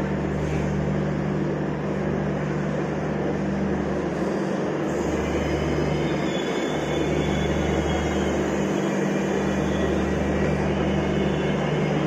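Padatik Express passenger train running, a steady low rumble with a constant hum that dips briefly twice.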